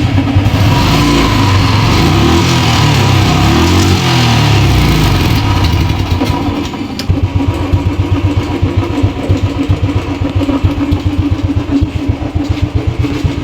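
Royal Enfield Thunderbird single-cylinder engine, freshly rebuilt with new valves, hydraulic tappets and piston, revved up and down for the first six seconds or so. It then settles into an even, rapid thumping idle, which is judged free of its earlier tik-tik tappet noise.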